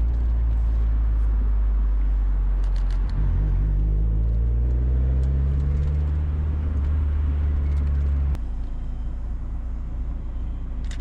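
Mazda Miata's four-cylinder engine heard from inside the cabin, pulling up through the revs with a short break about three seconds in. It drops off sharply about eight seconds in as the throttle is lifted, leaving a lower, quieter drone with road noise.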